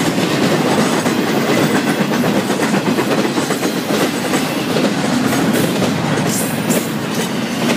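Intermodal freight cars of a Florida East Coast Railway train rolling past at speed close by: a loud, steady rumble of steel wheels on the rails with a clickety-clack over the rail joints.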